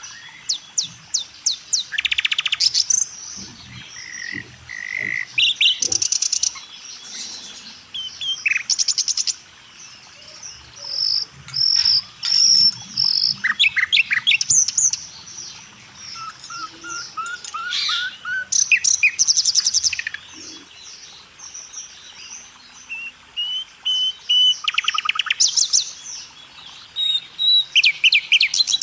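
Several songbirds singing and calling at once: fast chirping trills and short whistled notes, overlapping throughout.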